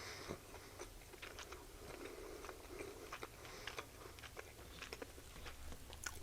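A person quietly chewing a bite of a blackened chicken sandwich, with many small wet mouth clicks scattered throughout.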